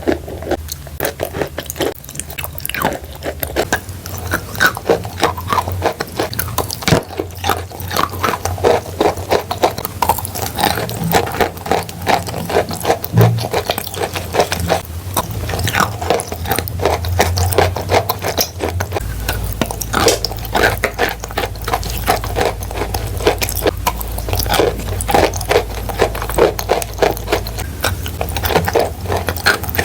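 Chalk coated in clay paste crunching and crumbling, a dense run of many quick, irregular crunches and crackles.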